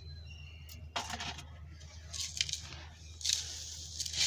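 Dry, crumbly red dirt and sand-cement chunks being crushed, giving crisp, dusty crunches at irregular moments, the clearest about a second in, at two seconds and at three seconds.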